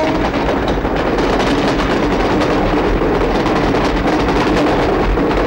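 Passenger train running past close by: a steady, unbroken noise of the coaches' wheels on the rails.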